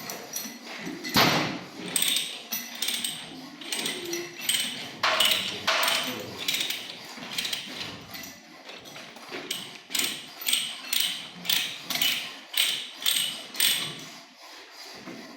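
Hand ratchet pipe threader being worked on a metal pipe: repeated strokes of the die cutting thread, mixed with ratchet clicks, about two strokes a second.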